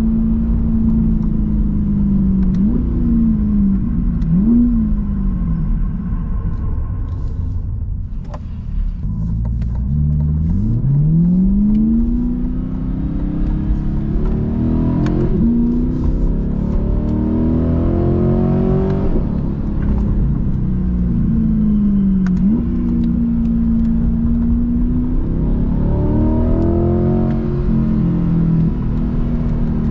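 Corvette C8's V8 engine driving: cruising at steady revs with a few brief dips and rises, easing off about eight seconds in, then accelerating with the revs climbing and dropping back twice at upshifts, before settling into a steady cruise again.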